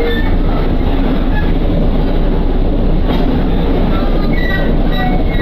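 Electric train running along the Iida Line, a steady rumble of wheels on the rails and running gear heard from on board, with a few faint short squeaks.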